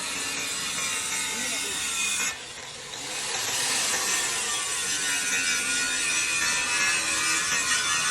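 Steady rasping metalwork noise on a steel tractor wheel plate. It cuts out briefly about two seconds in, then carries on.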